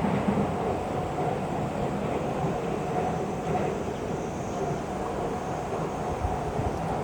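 Electric local train rolling out of a station: a steady running rumble with a thin, faint whine.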